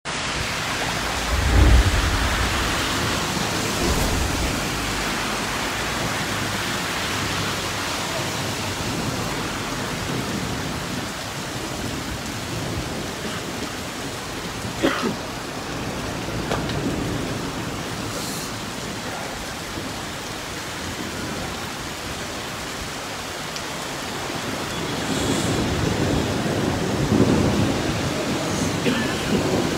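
Heavy rain pouring down, a steady hiss, with a loud low thump about two seconds in and a deeper rumble swelling near the end.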